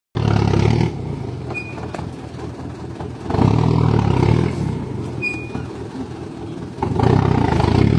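Truck diesel engine running, revved up three times in short surges, with two brief high squeaks in between.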